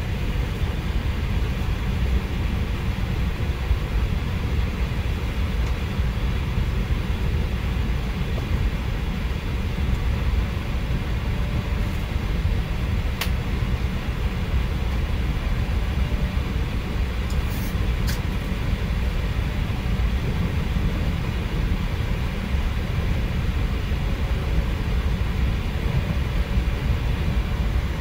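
Interior noise of an E4 series double-decker Shinkansen car, heard from inside the car: a steady low rumble. A couple of faint clicks come about 13 and 18 seconds in.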